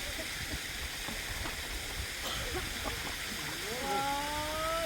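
Steady rush of heavy rain and running water. Near the end, a single long drawn-out call that rises slightly and then falls.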